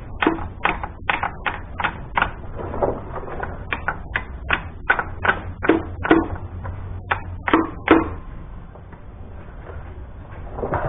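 Hammer striking a block of wood held against engine parts: a quick series of sharp knocks in two runs, with a short pause about two seconds in, stopping about eight seconds in.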